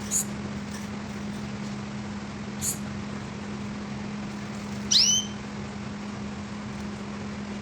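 A pet bird chirping: a short high chirp right at the start, another about halfway through, and a louder, fuller call about two-thirds of the way in. A steady low electrical hum runs underneath.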